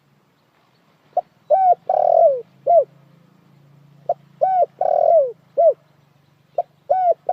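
Spotted dove (dekukur) cooing: a repeated phrase of a short note, a double coo, a longer falling coo and a final short note. It starts about a second in and comes three times, the third running on past the end.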